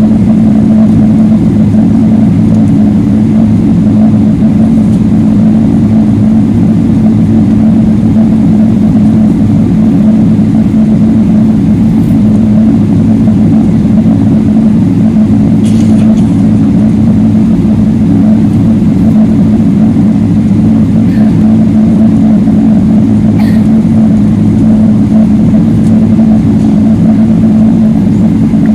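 Boeing 777-300ER passenger cabin drone: a loud, steady rumble of jet engines and airflow with a low, even hum and no change in pitch. A few faint clicks are heard now and then.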